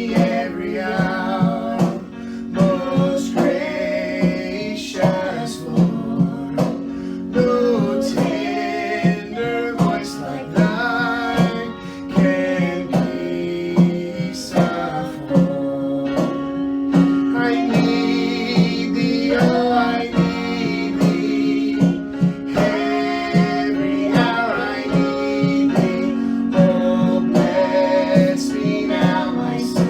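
Worship song: acoustic guitar strummed in a steady rhythm, with singing over it.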